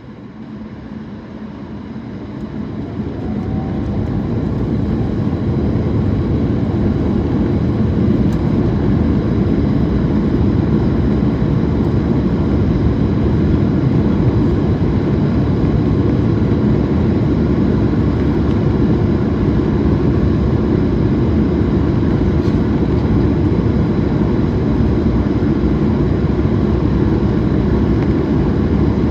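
Airbus A220's Pratt & Whitney PW1500G geared turbofan engines spooling up over the first few seconds to takeoff thrust, then running steadily and loudly at full power.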